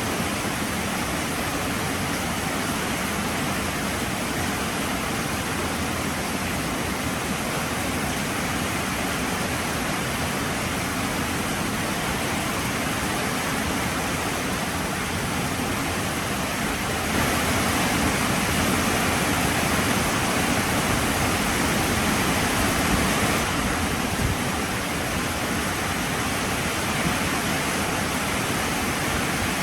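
Heavy rain falling steadily as an even hiss, getting heavier for several seconds past the middle before easing back.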